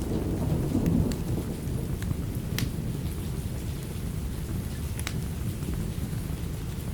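Steady heavy rain with a low rumble of thunder that swells and fades over the first second or so. A few sharp pops stand out over the rain, about 1, 2.5 and 5 seconds in.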